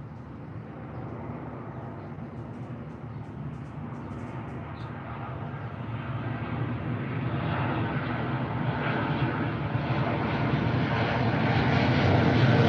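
Low engine rumble of an approaching vehicle, growing steadily louder throughout.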